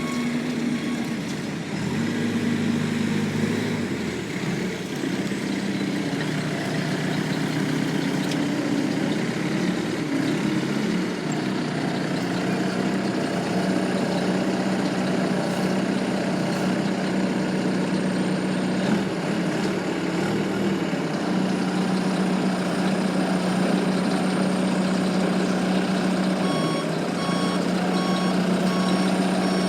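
Heavy goods truck's diesel engine running steadily under way. Its reversing alarm beeps in a quick repeated series at the very start and again near the end, as the truck backs up.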